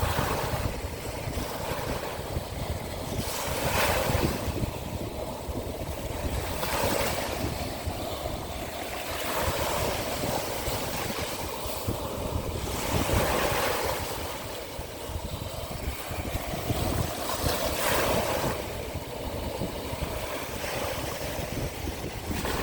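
Sea of Azov waves washing onto the shore, one wash swelling and falling away every two to three seconds, with wind buffeting the microphone in a low rumble.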